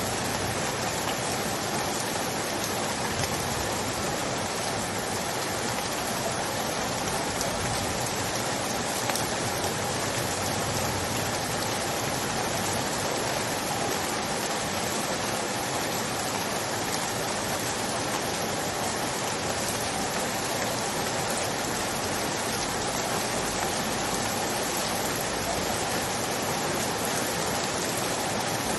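Steady rain falling, an even hiss with no breaks and no single drop standing out.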